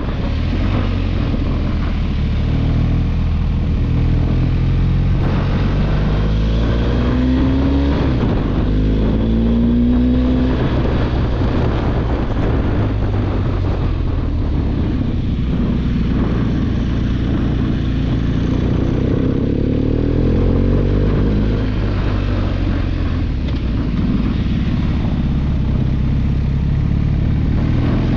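Motorcycle engine running at road speed under heavy wind rush on the helmet microphone, its pitch rising as it accelerates, most clearly around a third of the way in and again about two-thirds through.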